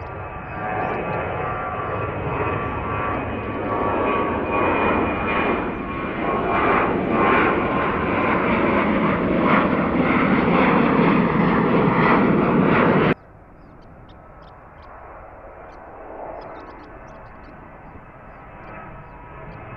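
Jet airliner's engines running at takeoff power, a loud rushing noise that builds as the plane departs, then cuts off abruptly about two-thirds of the way in to a much fainter jet noise.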